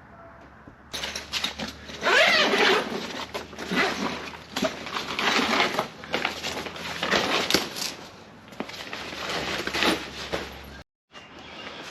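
Canvas swag being handled: irregular rustling, scraping and crumpling of the heavy fabric as it is pulled about and unfolded, starting about a second in and cutting out briefly near the end.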